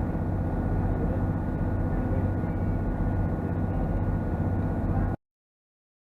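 Boat engine running steadily, a low drone with a thin steady whine above it, heard from on board. It cuts off abruptly about five seconds in and is followed by dead silence.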